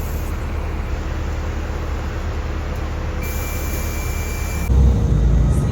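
Bus on the move: steady engine and road noise with a low rumble. A thin, steady high tone sounds for about a second and a half after the middle, and the engine rumble grows louder near the end.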